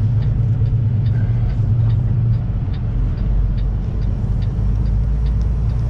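Kenworth semi-truck's diesel engine running steadily, heard inside the cab as a low rumble, with a light ticking about twice a second over it.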